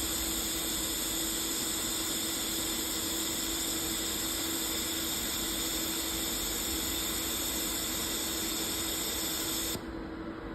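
Steady machine hiss and hum from a desktop laser welding machine running, with no pulse clicks; about a second before the end the high hiss cuts off suddenly.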